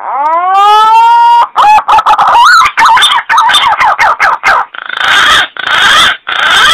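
Loud bird calls: a rising note held for about a second and a half, then short broken notes that swoop up and down, ending in three harsh bursts.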